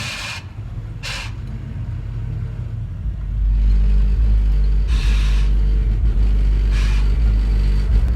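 A car engine running with a low rumble that swells to a much louder, deeper rumble about three seconds in. Four short hisses come over it.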